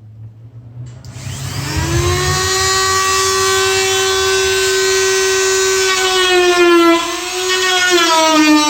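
Dremel rotary tool with a cut-off disc spinning up to a steady high whine, then its pitch sagging and wavering from about six seconds in as the disc cuts into the kayak's plastic hull.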